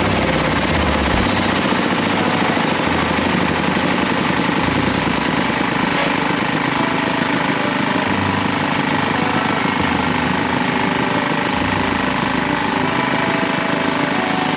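Drilling rig's engine and machinery running steadily and loudly, with no let-up.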